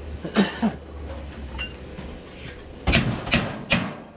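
Hammer blows: two knocks about half a second in, then three quicker strikes near the end, over a low steady hum.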